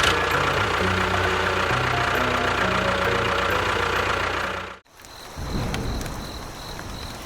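A small engine or motor running steadily for nearly five seconds, then cutting off abruptly. After the cut, quieter outdoor background with an insect chirping at about two to three chirps a second.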